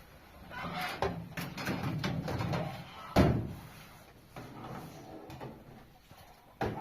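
Irregular knocking and rustling, with one loud thump about three seconds in and a sharp knock near the end.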